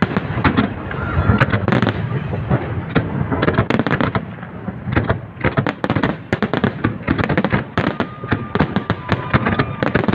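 Fireworks salute going off: a dense, continuous barrage of loud bangs and crackles following one another several times a second.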